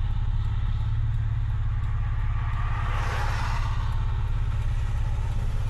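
Honda Accord's engine and exhaust droning steadily, heard from inside the cabin, with a brief hiss of road or passing-traffic noise swelling about three seconds in.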